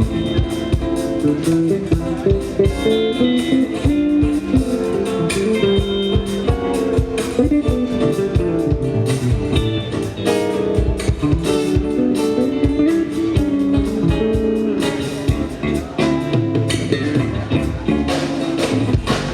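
Live band playing, with guitar to the fore over a steady drum beat.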